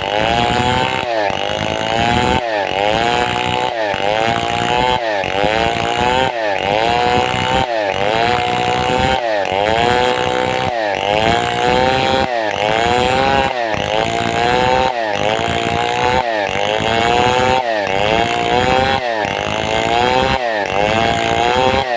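Large two-stroke chainsaw, a Stihl 070-type saw (New West 707 clone), running at high speed while cutting wood. Its pitch dips and climbs back in an even rhythm about every two-thirds of a second.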